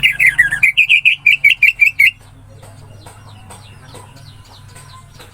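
Orange-headed thrush (anis merah) singing: a fast run of loud, clipped chirping notes, roughly seven or eight a second, for about two seconds, then softer, quieter twittering.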